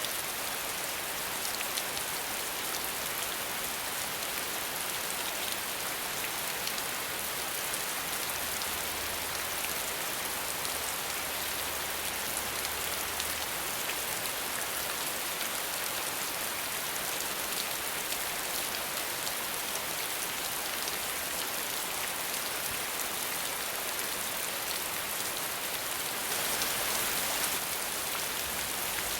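Steady rain falling and pattering on surfaces, a dense even hiss of many drops without thunder; it swells a little near the end.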